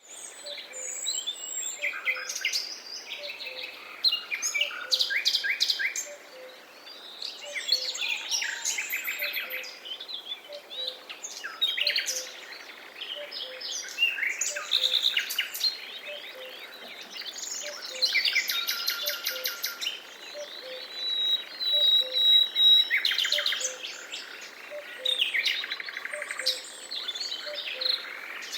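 Forest ambience: several birds singing and chirping at once, with overlapping trills and whistled phrases, one long steady whistle about two-thirds of the way in, and a faint low note repeating a little more than once a second underneath.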